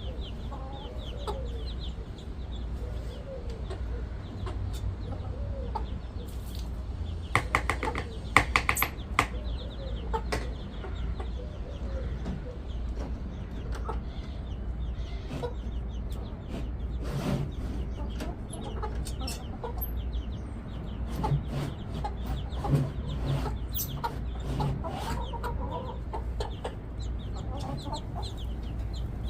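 Backyard chickens clucking on and off, with a louder flurry of squawks about a quarter of the way in. A steady low hum runs underneath.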